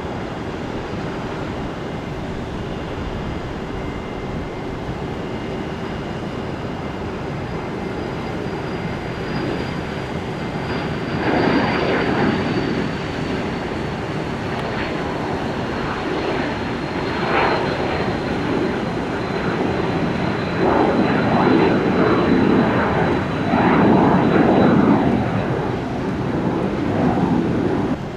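Jet airliner's engines passing: a steady rush of noise that swells in surges through the second half, with a high thin whine that slowly falls in pitch.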